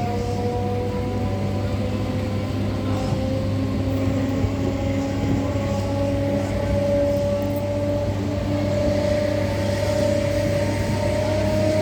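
MMTS electric multiple-unit train running, its traction motors whining with several tones that climb slowly in pitch as it picks up speed, over a steady low hum and rumble.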